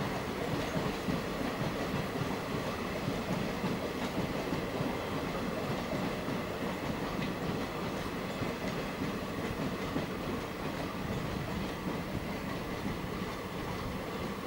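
Passenger coaches of a train rolling past on the rails, a steady noise of wheels on track.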